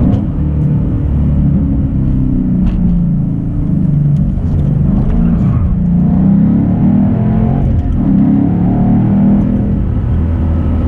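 A manual car's engine heard from inside the cabin, running under load and rising and falling in pitch as the car accelerates and shifts gears.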